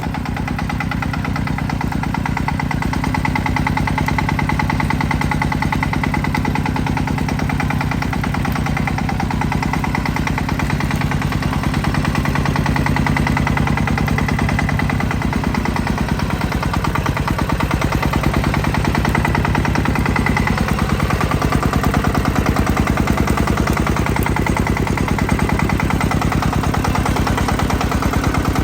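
Tractor engine running steadily with a regular, fast firing beat, its pitch shifting slightly about halfway through.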